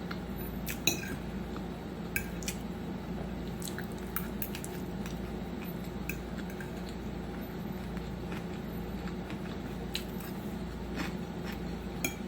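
Utensils clicking against a plate now and then during a meal, with soft eating sounds over a steady low hum.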